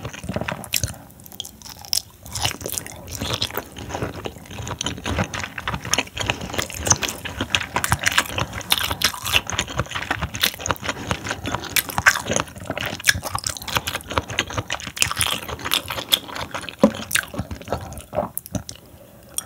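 Close-miked chewing and biting of raw seafood sashimi: a dense, continuous run of wet, crisp crunching clicks.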